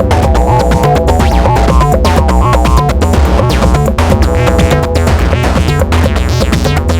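Electronic acid-style jam played on a Make Noise Eurorack modular synthesizer. A sequenced pattern of short, repeating synth notes sits over a steady, heavy bass line, with percussive electronic hits keeping a steady beat.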